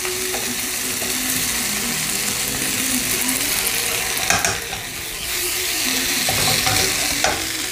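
Potatoes frying in a pan, a steady sizzle, with a brief scrape or clatter about four seconds in.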